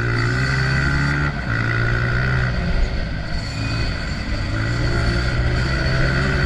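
Honda CRF125F's single-cylinder four-stroke engine running hard under throttle, its pitch dipping briefly about a second in, with wind and rumble on the microphone.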